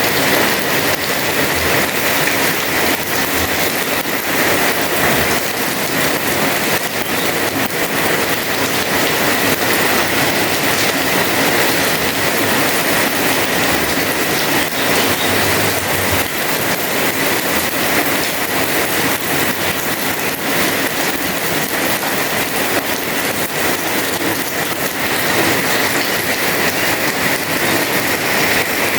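Heavy rain falling steadily and pattering on a house terrace and roof, a dense even hiss.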